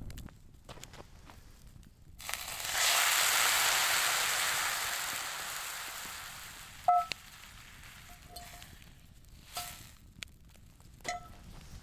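Food hitting a hot pan over campfire coals: a loud sizzle that bursts up a couple of seconds in and slowly dies down. Then several sharp metal clinks, each with a short ring.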